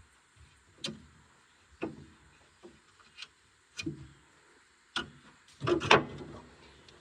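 Irregular metallic knocks and clanks, about one a second, with a louder quick cluster near the end: tools and parts being handled while a skid steer is taken apart.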